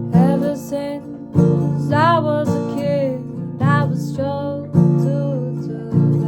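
Acoustic guitar strummed in a slow, even rhythm, a strong strum about every second, with a voice singing a wavering melody over it in three phrases.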